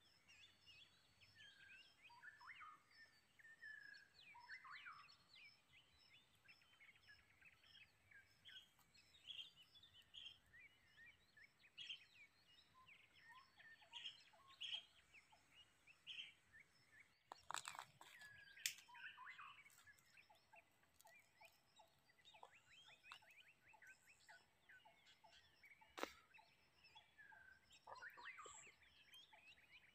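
Wild birds chirping and calling in many short, varied notes, with a faint steady high tone behind them. A few sharp clicks or knocks break in, the loudest a little past halfway.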